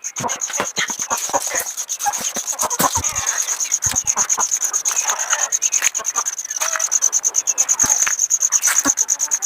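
Insect chirring, one high steady fast-pulsing note, with scattered rustling, scraping and clicking from hands searching a hen's nest.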